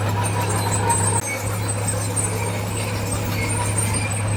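Heavy earthmoving machinery engine running steadily with a deep, even hum, dipping briefly about a second in.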